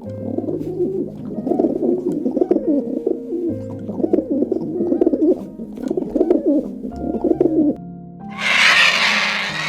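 Pigeons cooing in a continuous run of low, warbling coos over sustained background music. The cooing stops near the end, and a loud hissing rush of about two seconds follows.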